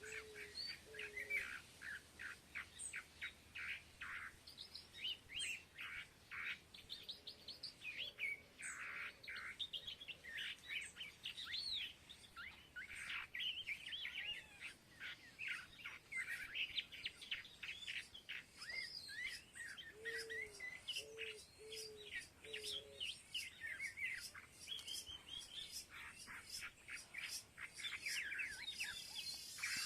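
Many small birds chirping and twittering together while feeding, with quick overlapping calls throughout. Twice, a lower call repeats four or five times in quick succession.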